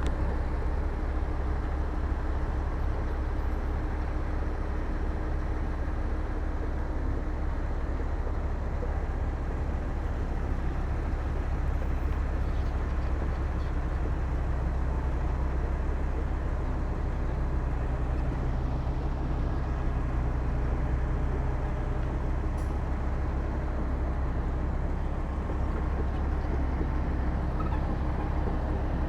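Diesel engine of heavy earthmoving machinery running steadily, a continuous low drone.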